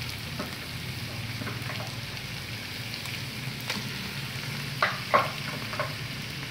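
Ground pork, chopped onion and garlic sizzling steadily in hot cooking oil in a frying pan, with a few short sharp clicks about five seconds in.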